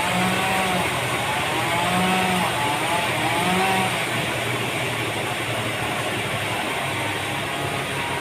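Sawmill machinery running steadily, with an engine hum and a whine that wavers up and down in pitch.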